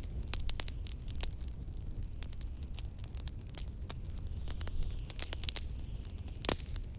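Wood fire crackling with many quick irregular pops and one louder pop near the end, over a steady low rumble of blizzard wind.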